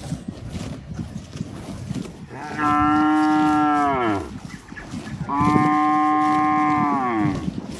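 A cow mooing twice, each a long, steady call of about two seconds that drops in pitch as it ends, with a pause of about a second between them.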